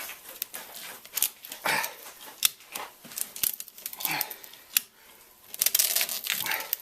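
Ratchet strap being tightened to compress a strut's coil spring: irregular ratchet clicks and short rasps of webbing, with a dense run of clicks near the end.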